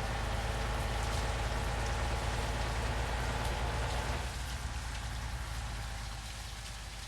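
Steady rain-like hiss over a low engine rumble; the rumble and hiss ease off about four seconds in.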